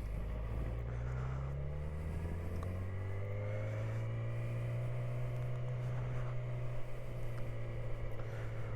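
Yamaha R6 sport bike's inline-four engine running at low, steady revs, with a fainter higher whine that slowly rises and then eases back down in pitch through the middle.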